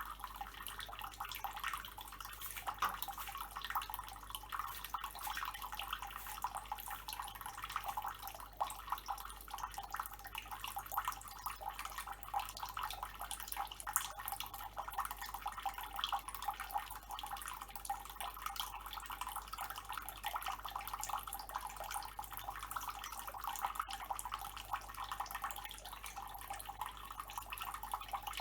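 Tap water running steadily and splattering.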